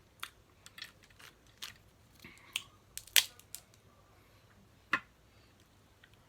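Snow crab leg shells cracking and snapping open: a string of irregular sharp cracks, the loudest a little past three seconds in and one more near five seconds.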